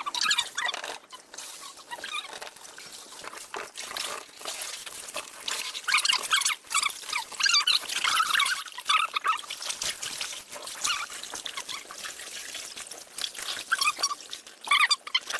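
Water splashing and trickling in irregular bursts, louder in patches.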